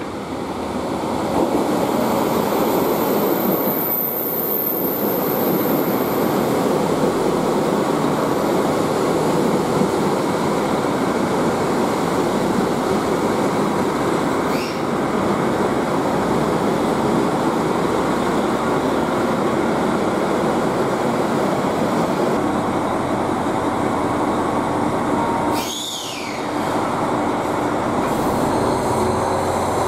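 Limited express Hokuto diesel train running in alongside the platform, a steady rumble of wheels and engine. Brief wheel or brake squeals come about 15 seconds in and again, falling in pitch, about 26 seconds in.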